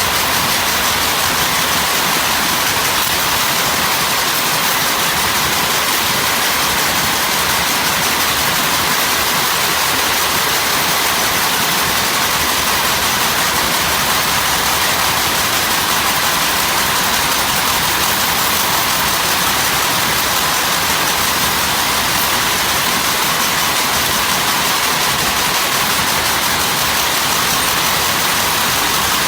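Steady, unbroken hiss-like machine noise at a constant loud level, with no strikes, breaks or rhythm.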